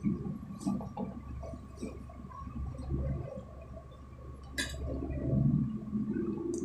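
Close-miked wet chewing and lip smacking of a person eating raw shrimp, with one sharp clink about four and a half seconds in.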